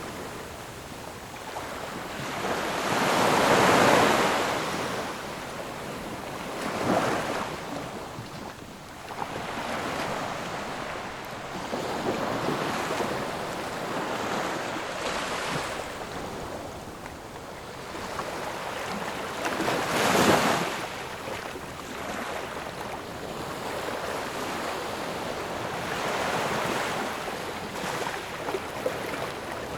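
Ocean waves breaking and washing up the shore: a continuous surf hiss that swells and fades every few seconds, with the biggest breaks about four seconds in and about two-thirds of the way through.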